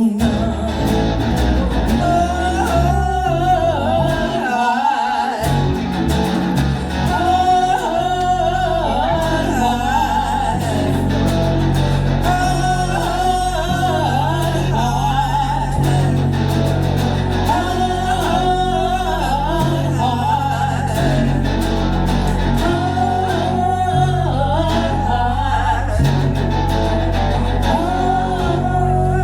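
Live band music: guitar over a steady bass line, with a wavering lead melody and no clear sung words.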